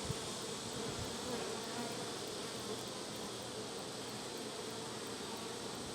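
Honeybees buzzing around an opened hive, a steady hum of many bees in flight, with a faint knock near the start.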